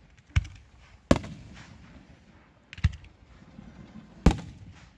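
Aerial firework shells bursting overhead: four sharp bangs at uneven intervals, each trailing off briefly.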